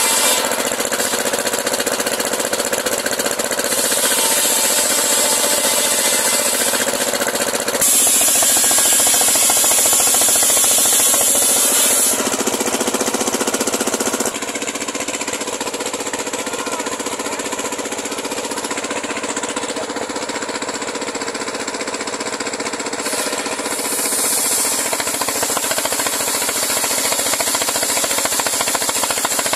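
Homemade circular sawmill blade ripping a large pule log, its motor running steadily under load. The high hiss of the cut grows and fades in stretches as the blade works through the wood, and is weakest for several seconds in the middle.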